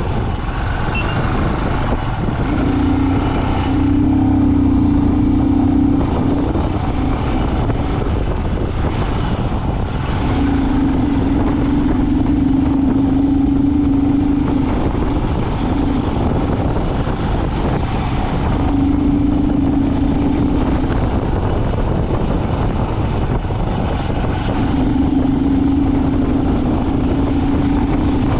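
A road vehicle driving, with a steady low rumble of engine and road noise. A droning hum comes in and fades out four times, for a few seconds each.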